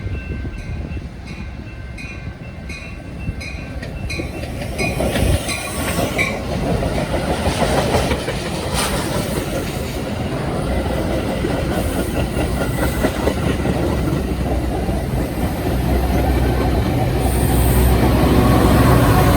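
A train passing on the tracks: rumble and clatter of wheels on the rails, growing louder toward the end. In the first few seconds a light ringing tick repeats about twice a second, then fades under the train.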